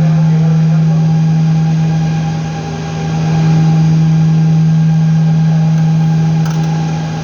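A steady low machine hum at one constant pitch, with fainter overtones, that dips briefly twice.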